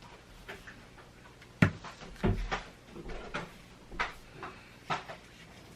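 About six knocks and clacks of hard plastic Play-Doh tools and containers being handled and set down on a table. The loudest, sharpest knock comes about one and a half seconds in.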